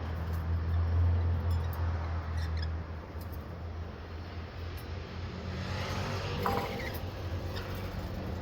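Birds squeaking faintly a few times over a steady low rumble.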